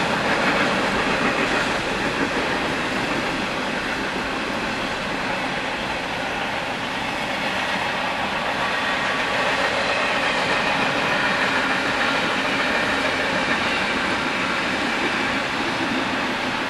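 Union Pacific intermodal freight train rolling past, a steady rumble of steel wheels on the rails.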